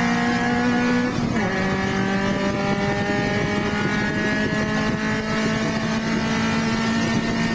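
Porsche 924S race car's 2.5-litre four-cylinder engine under full throttle, heard from inside the car over wind and road noise. About a second in the revs drop sharply at an upshift, then climb steadily as the car pulls down the straight.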